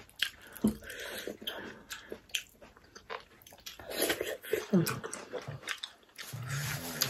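Close-miked eating sounds: chewing and lip-smacking of barbecued pork eaten by hand, with wet sucking as fingers are licked clean about halfway through.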